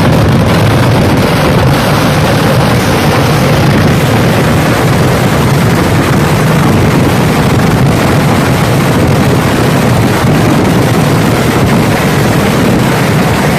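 Dense, continuous fireworks barrage: rapid bangs that merge into one steady, loud roar with no pauses.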